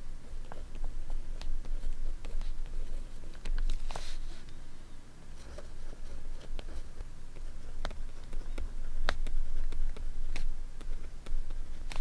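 Paper and stationery being handled for scrapbooking: scattered light taps and clicks, with a short paper rustle about four seconds in.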